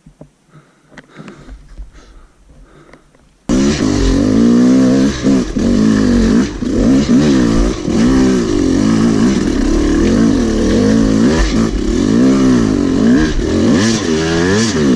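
Yamaha YZ250 two-stroke dirt bike engine that comes in suddenly about three and a half seconds in, then revs up and down again and again as the bike is ridden. Before that there are only faint small sounds.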